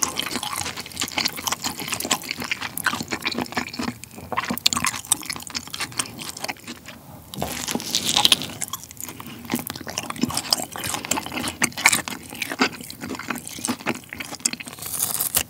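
Close-miked chewing of jjapagetti noodles and grilled pork belly: wet mouth smacks and clicks, with a bite into a thick slice of pork belly about eight seconds in.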